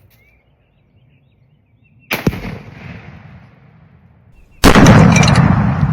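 A rifle shot cracks about two seconds in. A couple of seconds later comes the much louder Tannerite explosion, a heavy boom that rumbles on and slowly fades.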